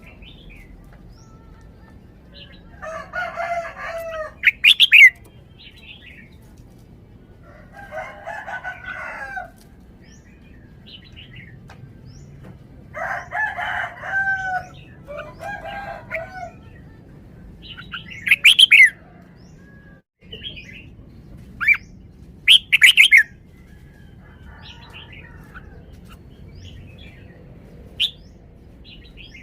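Red-whiskered bulbul giving short, loud, sharp whistled song phrases several times, while a rooster crows repeatedly in the background.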